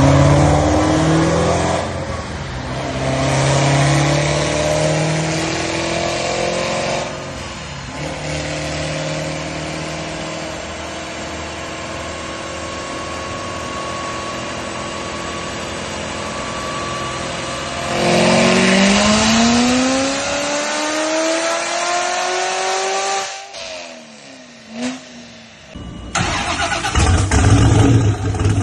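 Supercharged V8 of a tuned C7 Corvette Z06 being revved under load. The pitch climbs in the opening seconds and then holds steady for a stretch. A long rising pull about 18 seconds in cuts off sharply, and after a short quieter lull a loud, deep rumble returns near the end.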